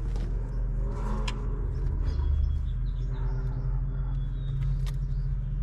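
A steady low mechanical hum runs throughout, with a few sharp clicks of hands working the ABS sensor's electrical connector behind the wheel hub.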